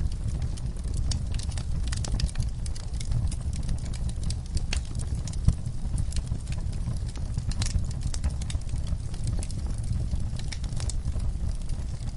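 Wood fire burning in a fireplace: a steady low rumble of flame with irregular crackles and snaps, one sharper pop about five and a half seconds in.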